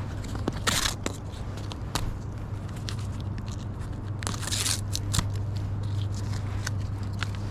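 Crackling wood campfire giving many sharp snaps and pops, with two short scraping sounds, one about a second in and one around four and a half seconds in, over a steady low rumble.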